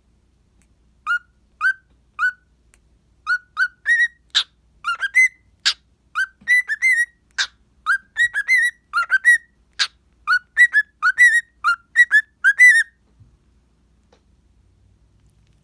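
Cockatiel whistling a song: a quick run of short whistled notes, many rising at the end, with a few sharp chirps among them. It stops a little before the end.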